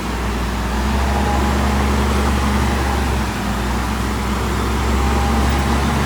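Heavy-equipment diesel engine running steadily, a low hum with little change in pitch.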